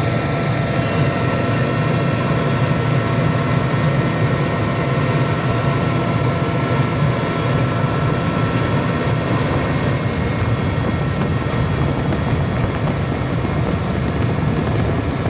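Steady low engine rumble with a faint, even whine above it, unchanging throughout.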